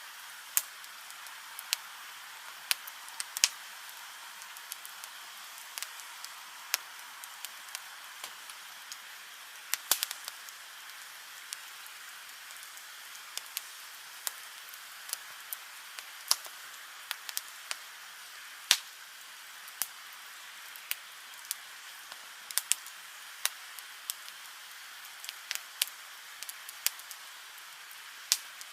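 Wood campfire crackling: sharp, irregular pops and snaps over a steady soft hiss.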